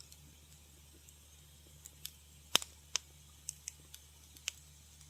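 Wood fire crackling in a fireplace: scattered sharp pops and snaps at irregular intervals, the loudest about halfway through, with a low steady hum underneath.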